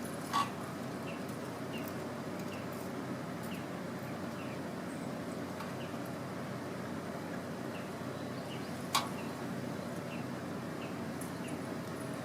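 Campfire burning with a steady hiss and two sharp pops, one about half a second in and one about nine seconds in. Faint short high chirps repeat in the background.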